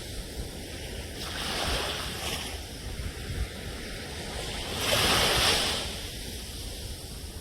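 Ocean surf: waves washing in with a steady rush of water, one wave breaking loudest about five seconds in and then ebbing away.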